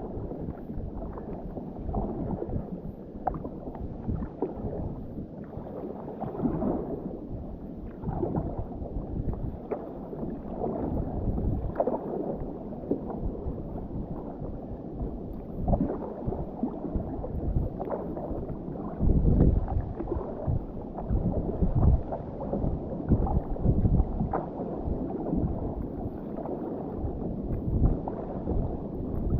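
Kayak paddled through small swell: water splashing from the paddle strokes and sloshing and gurgling against the hull, in irregular surges.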